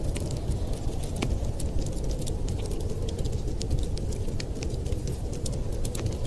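Wood fire crackling in a fireplace, irregular sharp pops and snaps over a steady low rumble.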